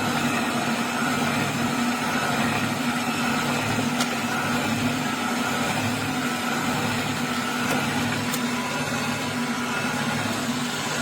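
Fretta juice extractor's electric motor running steadily, a constant hum.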